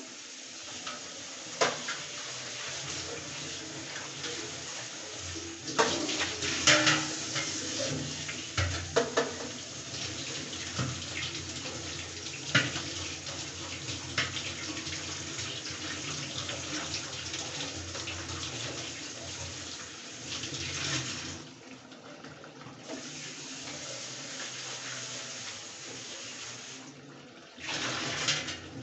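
Chicken curry sizzling and bubbling in a steel kadai: a steady frying hiss with scattered sharp pops and spatters, a cluster of them about six seconds in.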